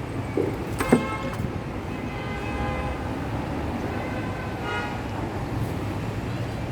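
Steady traffic rumble with vehicle horns sounding a few times, each toot up to about a second long, and a single sharp knock about a second in.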